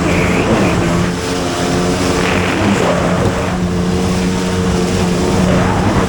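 Jet ski engine running steadily at speed, its pitch wavering slightly over the rush of water and wind.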